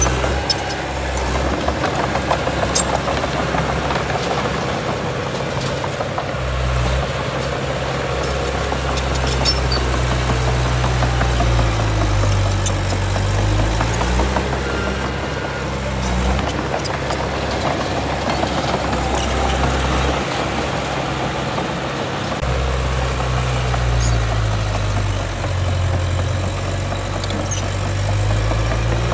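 Heavy diesel earthmoving machinery running steadily, its engine note stepping up and down several times as it works. Scattered sharp clicks and rattles come through at the start and again near the end.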